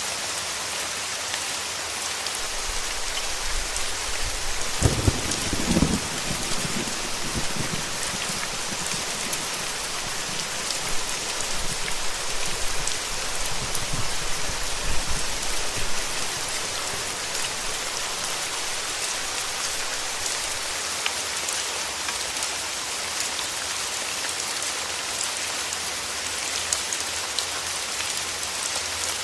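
Steady rain hissing down, with low rolls of thunder about five seconds in and again around fourteen seconds.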